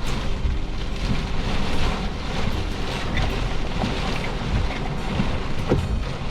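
Thunderstorm rain and gusting wind of about 40 mph: a steady rushing noise with a deep rumble and scattered drops pattering.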